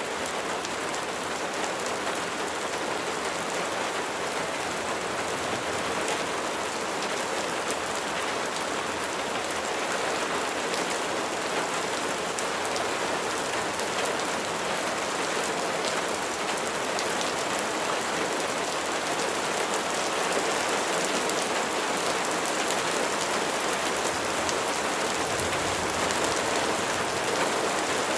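Steady rain falling on a surface, with individual drops ticking through the constant hiss.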